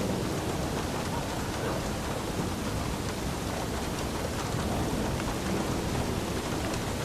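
Steady heavy rain with a low rumble of thunder underneath.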